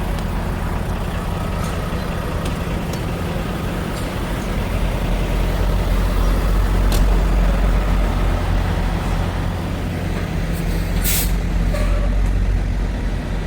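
Truck engine running steadily with road noise, and a short hiss about eleven seconds in.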